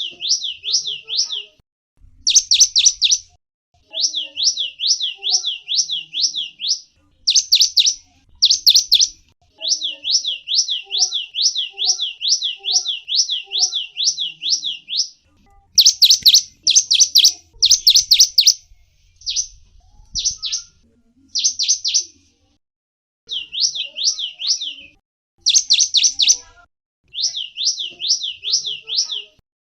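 A gelatik wingko songbird calling in quick runs of sharp, high sweeping chirps, about three a second, broken by short pauses.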